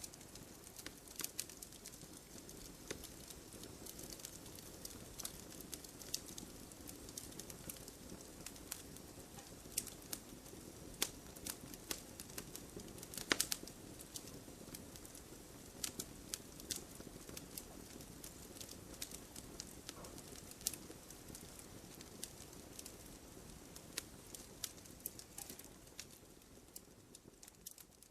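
Wood fire burning in a fireplace: irregular crackles and small pops over a soft low rumble, with one louder pop about halfway through.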